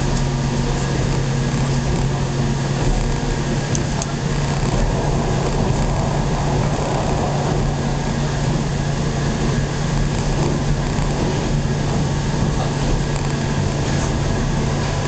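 Steady noise inside the carriage of a Hokuriku Line local train: a constant low hum under an even rushing noise, with no change in pace.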